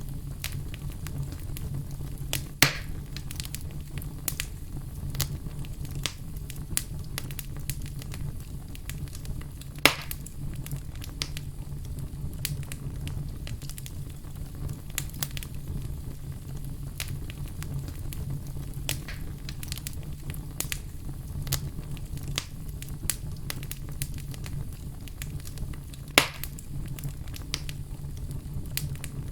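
Wood fire crackling: a steady low rumble of flames under frequent small crackles, with three louder pops about 3, 10 and 26 seconds in.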